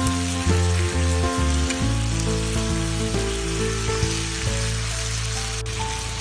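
Background music over the sizzle of beef steaks and vegetables frying in oil in a pan.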